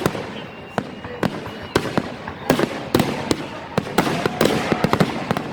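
Aerial fireworks bursting at close range: a run of sharp bangs at irregular intervals, sometimes two or three within a second.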